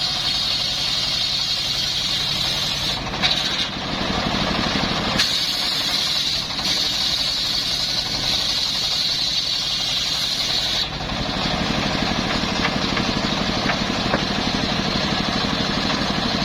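Engine-driven saw running steadily, with a high cutting whine that breaks off twice, briefly about three seconds in and for good about eleven seconds in, leaving the engine running on.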